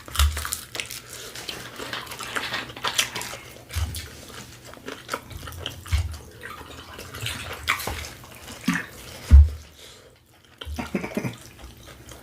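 Close-miked wet chewing and mouth smacking, a stream of short sharp clicks, with a few dull low thumps now and then.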